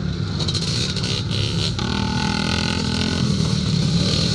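Vintage twinshock motocross bikes racing on the track, their engines running hard under load. A louder engine note holds steady for about a second near the middle.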